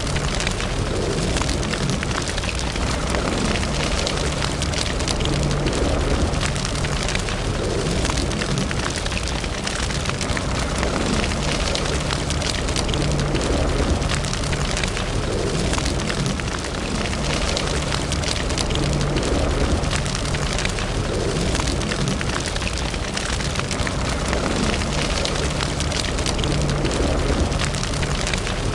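Wood fire burning in a fireplace: dense, continuous crackling and popping over a steady low rumble of the flames.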